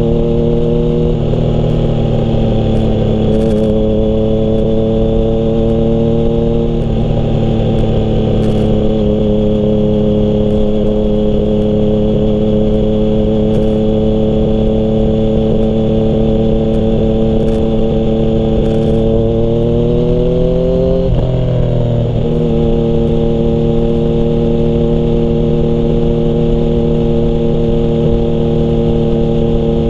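Yamaha MT-09's three-cylinder engine through a Termignoni exhaust, running at steady revs under way. About two-thirds through, the revs climb for a couple of seconds, then drop sharply and settle steady again.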